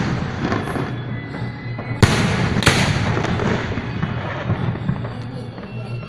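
Fireworks display: a continuous crackle and rumble of bursting shells, with two sharp bangs about two seconds in, half a second apart.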